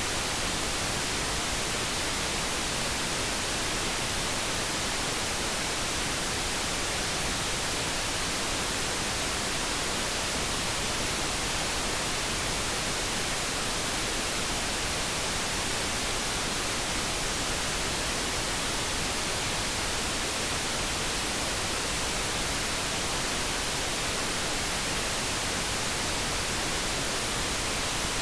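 Steady, unbroken synthetic noise, produced as light brown noise, an even hiss with no changes or separate sounds.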